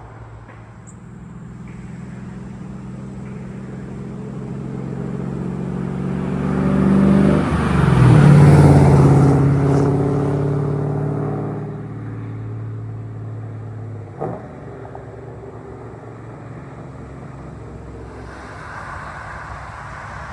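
Cammed Pontiac Trans Am WS6's LS1 V8, with an aggressive aftermarket cam, longtube headers and catless true-dual exhaust, approaching, passing loudest about eight seconds in with a drop in pitch, then fading away. A single sharp knock comes a few seconds after the pass.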